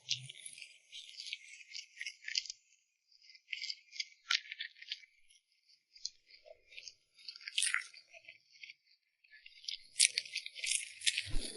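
Irregular, crisp, high-pitched crackling and rustling, close to the microphone, coming in short runs, with a denser spell near the end.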